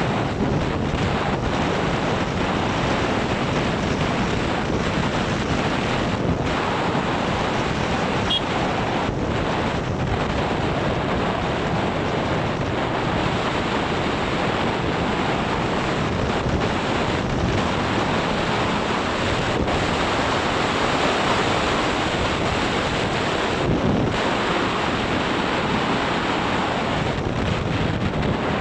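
Wind buffeting the microphone: a loud, steady rush of noise that covers everything else.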